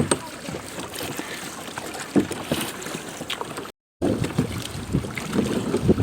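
Water splashing and sloshing around a kayak on the water, with scattered knocks and wind noise on the microphone. The sound cuts out completely for a moment about two-thirds of the way through.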